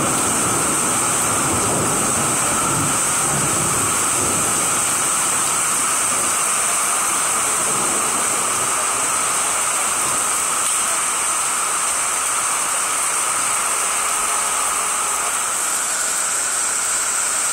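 Heavy rain pouring steadily onto a street, a dense even hiss of falling and running water. A low rumble of thunder dies away over the first few seconds.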